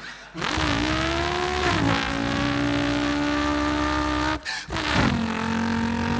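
A man's voice imitating a racing car engine with his mouth: a held, engine-like drone that drops in pitch about two seconds in, like a gear change. It breaks off briefly after four seconds and comes back at a slightly lower pitch.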